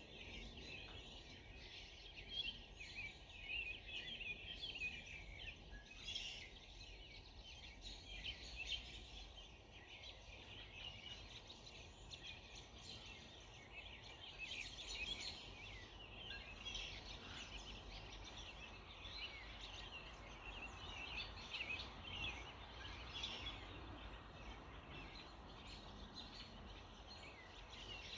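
Dawn chorus: many birds chirping and trilling at once, a dense tangle of short high calls over a faint background hum.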